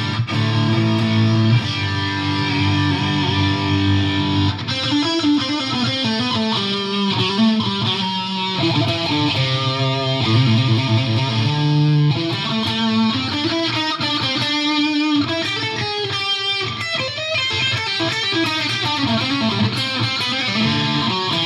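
Electric guitar (a Fender Stratocaster) played through a Fender Mustang GTX100 modeling amp on its 'Fired Up Lead' preset: a continuous lead passage of held notes mixed with quicker runs.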